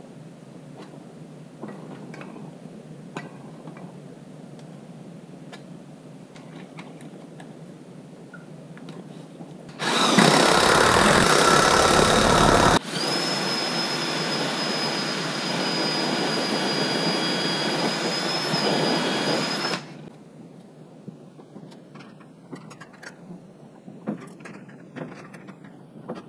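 A power tool running in two stretches, about ten seconds in all: a louder run of about three seconds, then a steadier run of about seven seconds with a thin high whine, which cuts off sharply. Light knocks and handling clicks come before and after it.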